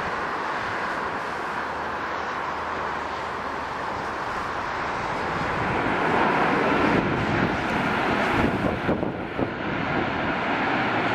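Rolls-Royce Trent 700 turbofans of an Airbus A330-300 landing, a steady jet rumble with a faint whine that grows louder about halfway through as the airliner comes closer.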